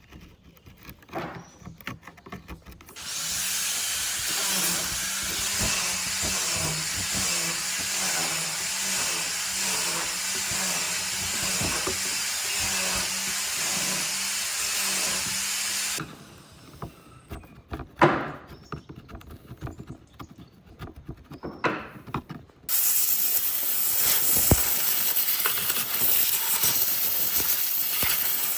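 A power tool working wood runs steadily for about thirteen seconds and stops suddenly. A few sharp knocks of wood being handled follow. Near the end another steady machine noise starts, high and hissy.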